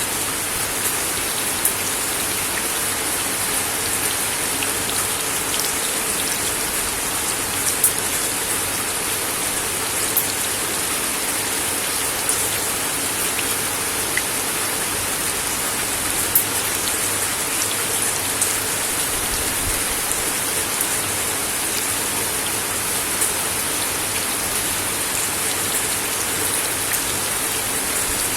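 Steady rain falling on a wooden deck: an even hiss of rainfall with individual drops clicking on the boards, a few landing louder.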